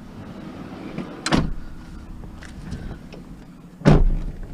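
Two loud knocks about two and a half seconds apart, the second louder, as scrap is loaded into a van.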